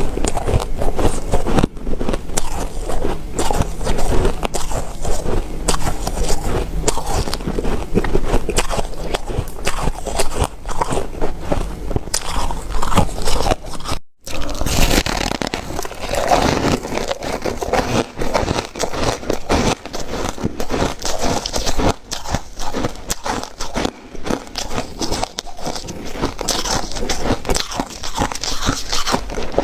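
Close-miked biting and chewing of ice: a dense run of crunches and crackles. The sound cuts out briefly about halfway, then the crunching resumes.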